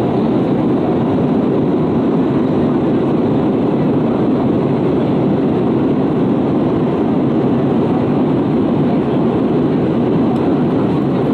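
Steady cabin noise inside an Airbus A320-232 airliner: an even, unbroken rush of airflow and engine noise, strongest in the low-middle range, with no change in level.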